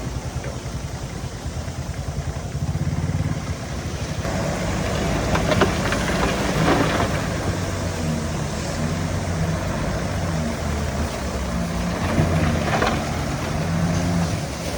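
Heavy diesel engine of earthmoving equipment running under changing load, rising in level a few seconds in. Brief clattering comes through about midway and again near the end.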